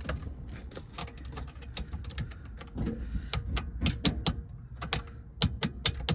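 Irregular metallic clicks and taps of hand tools working a sheared bolt loose, with a cluster of louder sharp clicks near the end.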